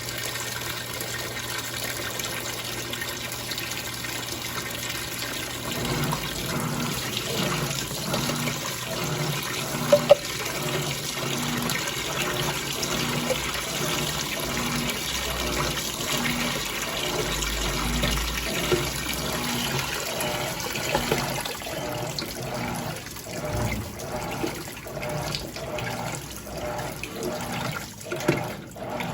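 Electrolux Turbo Limpeza Premium 6 kg top-loading washing machine running with water rushing and sloshing in the tub. About six seconds in, a regular pulsing sets in roughly once a second, becoming quicker and choppier near the end.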